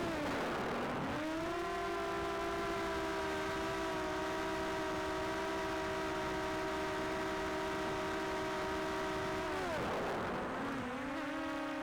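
Small multirotor drone's propellers and motors whining steadily, the pitch dipping sharply and climbing back twice as the motors slow and spin up again.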